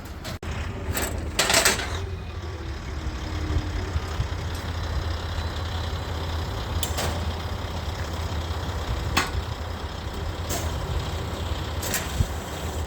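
A vehicle engine idles with a steady low hum. Several sharp metal clanks and snaps sound a few seconds apart as a scrap stove's sheet-metal panels are cut and pried off.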